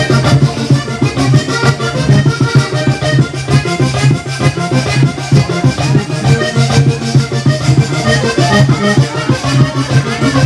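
Vallenato conjunto playing an instrumental passage: a button accordion carries the melody over the beat of a caja vallenata hand drum and the rasping of a guacharaca scraper.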